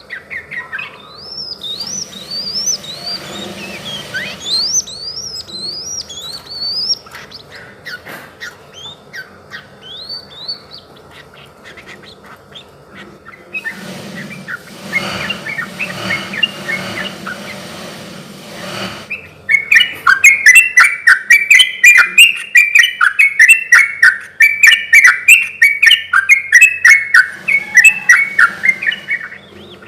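Yellow-vented bulbul (trucukan) in full song. It starts with a string of quick upward-sweeping whistled notes, then, about two-thirds of the way in, breaks into a loud, fast run of bubbling chatter notes that goes on to the end.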